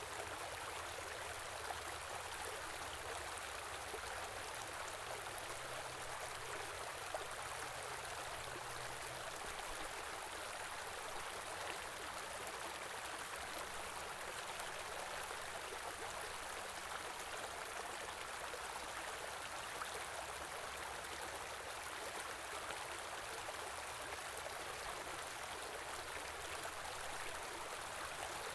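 Steady flow of a small river, water rushing and gurgling over rocks.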